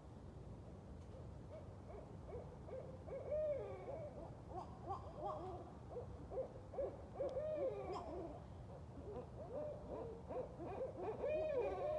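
Several barred owls caterwauling together: overlapping hoots and calls that swoop up and down in pitch, starting about two seconds in and growing denser toward the end.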